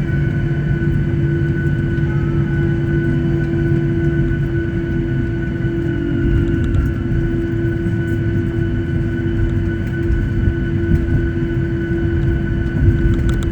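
Boeing 737-800 cabin noise while the aircraft taxis: its CFM56 jet engines run at a steady idle, heard as several constant whining tones over a low rumble.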